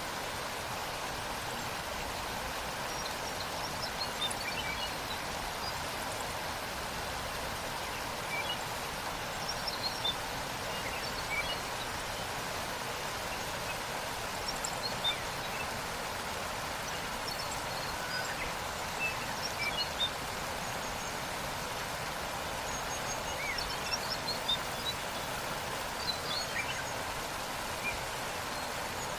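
Steady rushing of a waterfall, with many short, high bird chirps scattered over it.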